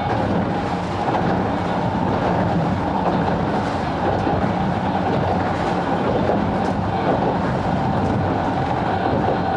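Sangi Railway 270-series narrow-gauge (762 mm) electric train running along the line: a steady rumble of wheels on rail with faint clicks over the rail joints.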